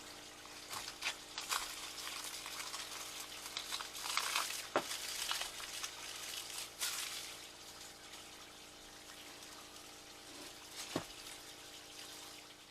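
Rain falling, an even hiss with a few sharper taps from drops.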